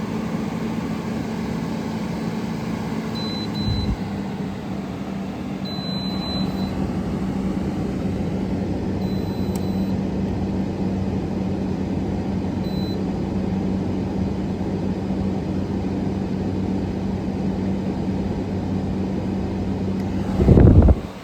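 Window air conditioner running on its first startup: a steady rush of the blower fan over a low hum. Near the end comes a brief loud low thump, and the sound then drops away.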